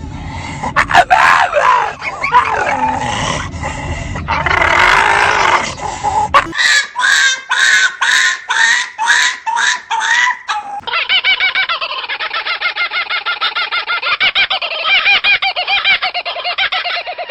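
Animal calls in back-to-back clips. First a dense run of pitched calls, then about nine separate calls at roughly two a second, and from about eleven seconds in a fast, steady run of short pitched pulses.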